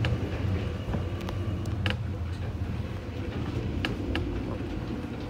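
Electric commuter train running slowly, heard from inside the front of the car: a steady low rumble with a few sharp clicks.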